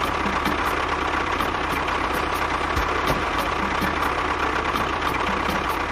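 Small engine idling steadily, with a regular beat of about four pulses a second.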